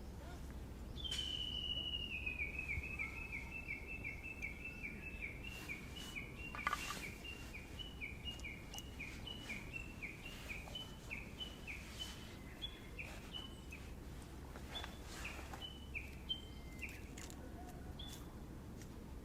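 A bird calling a long unbroken run of short repeated notes, about two or three a second, for some fifteen seconds, over a low steady background rumble. A few scattered clicks are heard along with it.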